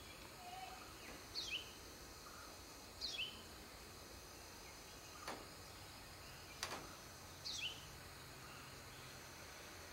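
A small bird gives three short, high, sharply falling calls, spaced a few seconds apart, over a steady background hiss. Two sharp clicks come between the second and third calls.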